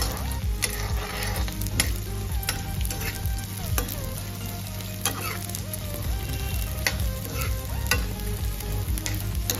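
Gond (edible gum crystals) frying in hot ghee in a metal kadhai, sizzling steadily while a metal spoon stirs and scrapes the pan with irregular clicks.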